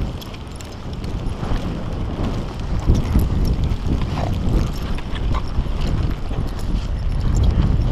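Blizzard wind buffeting the microphone with a heavy low rumble, over irregular crunching steps in deep snow.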